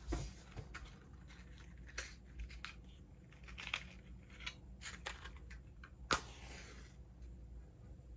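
Scattered small clicks and crinkling handling noises, with one sharper click about six seconds in.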